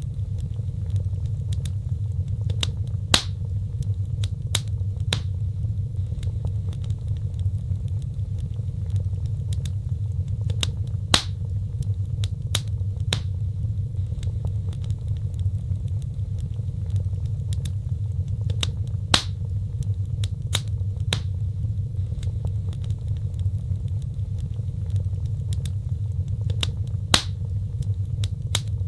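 Wood fire crackling, with sharp pops over a steady low rumble of burning. The same pattern of pops comes back about every eight seconds.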